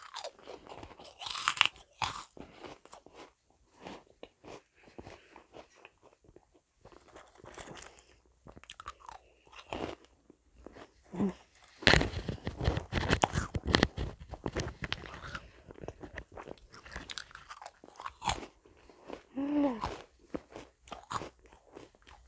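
Close-miked biting and chewing of crisp meringue cookies: dry, crackly crunches that come thickest about halfway through.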